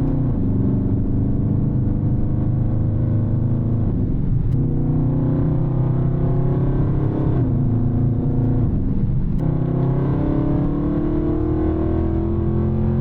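Dodge Charger Scat Pack's 392 Hemi V8, with mid-muffler delete and high-flow cats, running under way. Its note steps down twice in the middle, then climbs steadily near the end as it accelerates.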